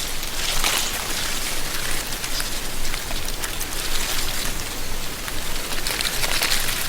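Wind gusting through tree canopies, rustling dry autumn leaves in a dense crackly hiss that swells and eases several times.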